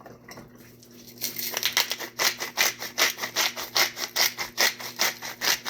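Black pepper being ground from a hand pepper mill: a rasping grind in short strokes, about four a second, starting about a second in.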